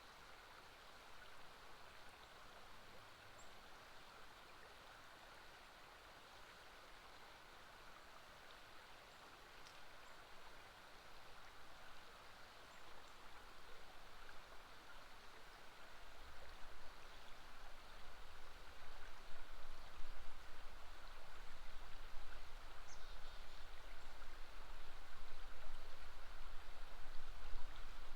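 River water flowing steadily, with a low rumble that grows louder from about halfway.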